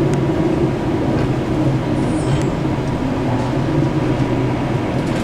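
Steady low drone of a cargo ship's engine and machinery, heard on board, with a wash of wind and sea noise over it.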